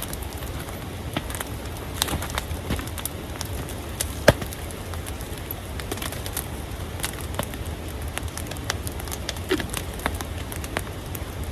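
Wood campfire crackling, with irregular sharp pops from resinous wood and one louder pop about four seconds in, over a steady low rumble.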